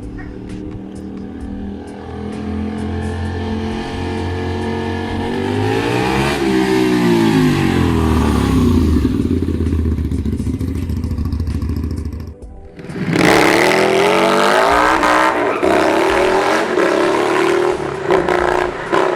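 Motorcycle engines running. One rises and falls in pitch as it passes, about six seconds in. After a brief drop-out two-thirds of the way through, a louder motorcycle revs and accelerates, its pitch climbing.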